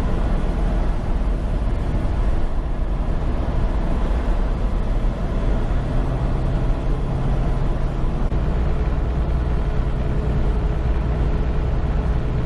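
Semi truck pulling an empty trailer at highway speed, heard from inside the cab: the diesel engine running steadily under constant road and wind noise.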